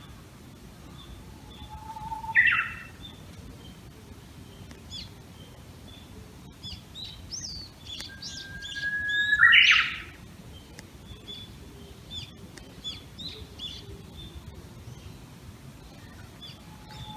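Japanese bush warbler singing its 'hoo-hokekyo' song twice: each time a drawn-out whistle followed by a quick, sharp 'hokekyo' flourish. The second song, about eight seconds in, opens with a longer, higher whistle and is the loudest. Other small birds chirp faintly in the background.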